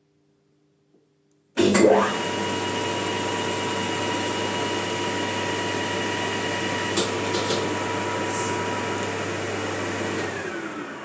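Emco Maximat lathe starting abruptly about a second and a half in and running steadily at around 900 rpm with a motor and gear whine, with a couple of clicks about five and a half seconds in. Near the end the pitch falls quickly and the sound dies away as a bicycle disc brake on the spindle stops it.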